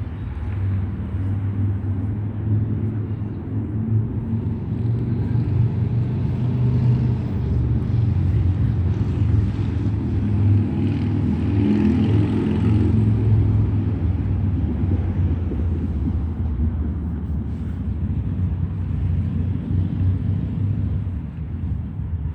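Outdoor road traffic: a steady low rumble, with a passing vehicle swelling louder through the middle and fading again.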